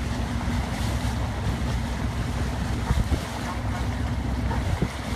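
Rescue boat's engine running low and steady under wind buffeting the microphone and the wash of water, with a few short low thumps.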